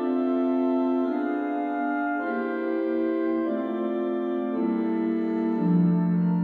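Organ playing slow, sustained chords that change about once a second, the bass line stepping downward.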